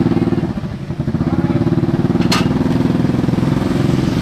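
A motorcycle engine running steadily, easing off for a moment about half a second in and then picking up again. A sharp click sounds about two seconds in.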